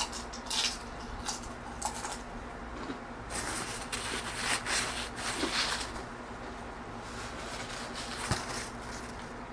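Close-miked crunching of a tortilla chip being chewed: a few crisp crunches at first, then a dense run of them about three to six seconds in, and one sharp click a little after eight seconds.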